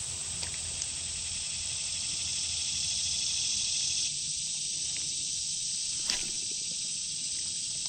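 Steady, dense chorus of insects with a low rumble of road traffic that fades about four seconds in, and a single sharp click about six seconds in.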